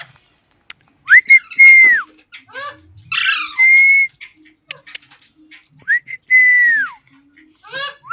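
Ringneck parrot whistling three times: each whistle is a long clear note that rises quickly, holds, and drops away at the end. Short harsh chattering notes come in between.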